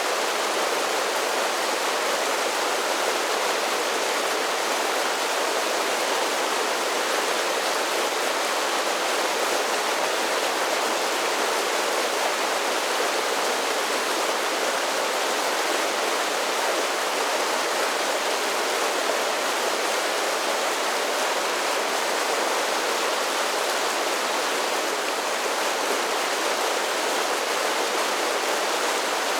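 Mountain creek cascading over a series of small falls: a steady, even splashing hiss of running water with little deep rumble.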